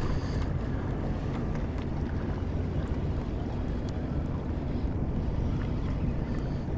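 Steady low rumble of wind and water around a small fishing skiff, with a faint low hum under it.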